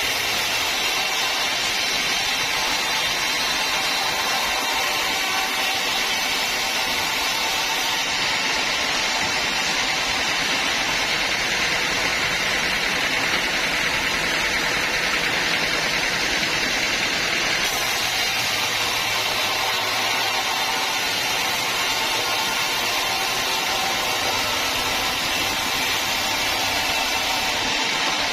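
Bandsaw sawmill running steadily, an even mechanical noise with no breaks.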